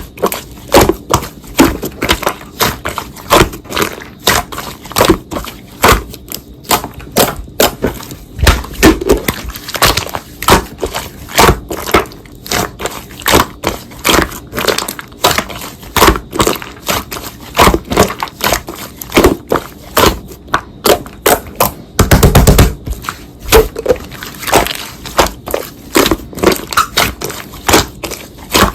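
Slime being squished and pressed by hand, giving a fast, irregular run of sticky pops and clicks, with a denser burst of squishing about three quarters of the way through.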